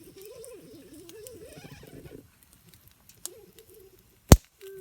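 Campfire burning damp wood: a faint wavering whistle for about two seconds, and a single sharp pop near the end.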